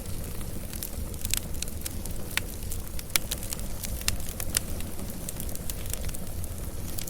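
Wood fire crackling and popping: irregular sharp snaps over a steady low rumble of the flames.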